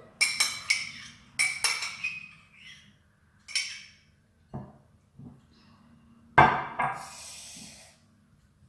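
Metal spoon clinking and knocking against a glass mixing bowl, a string of sharp ringing taps in the first few seconds and a louder knock with a brief scraping rush about six seconds in.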